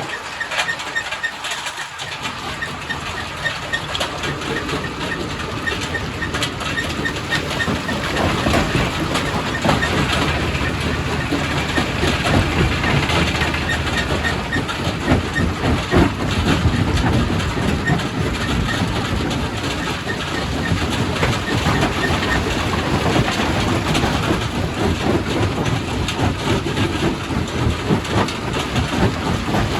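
Quarry primary rock crusher running and crushing stone: a loud, dense rumble with continual rattling and sharp knocks of rock breaking and tumbling. The deep rumble comes in about two seconds in.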